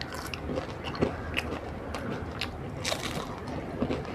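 Close-up chewing and crunching of khakra, a thin, crisp Gujarati flatbread. Irregular crackly crunches run through it, with a few sharper bites among them.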